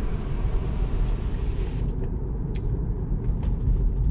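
Tesla rolling slowly with its windows down: a steady low rumble of tyres and road, with a hiss that fades about two seconds in and a few faint clicks.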